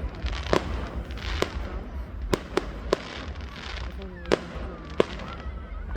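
Fireworks going off: a string of sharp cracks and bangs, about seven in six seconds, at irregular intervals.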